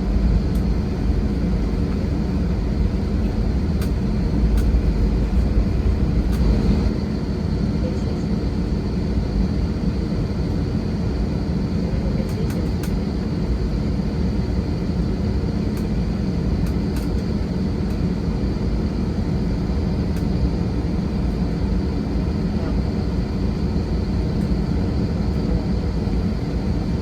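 Airliner engines running, heard inside the passenger cabin: a steady drone with several low hums over a rumble that eases slightly about seven seconds in.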